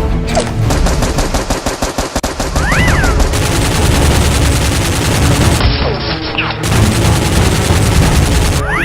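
Rapid automatic gunfire sound effects, many shots a second in sustained bursts, over background music.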